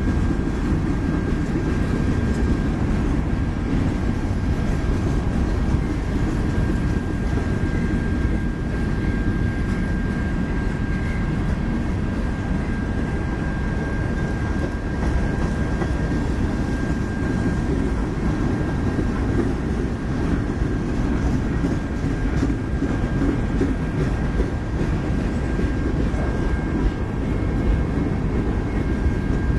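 Freight cars of a manifest train rolling past: a steady rumble and rattle of steel wheels on rail as covered hoppers and then centerbeam flatcars go by, with a thin steady high tone above it.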